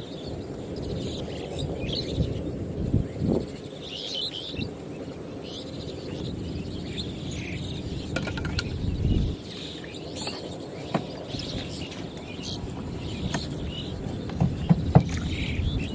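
Small birds chirping on and off over a steady low outdoor rumble, with a few sharp clicks or knocks later on.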